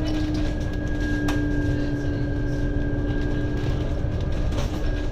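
Scania N280UD double-decker bus under way, heard from inside the cabin: a steady engine and drivetrain hum over low road rumble, with one sharp click from a rattle about a second in.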